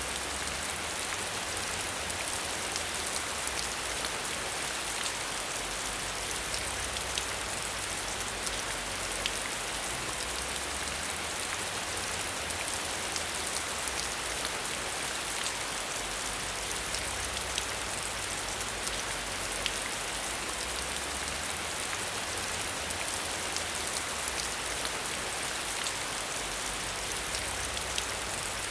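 Steady rain falling, an even hiss with many scattered sharp drop ticks and a low rumble underneath.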